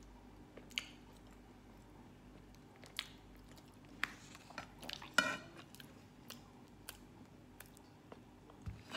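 A person chewing a mouthful of pork adobo and sweet potato: scattered soft, wet mouth clicks, with one louder brief mouth sound about five seconds in. A soft low knock near the end.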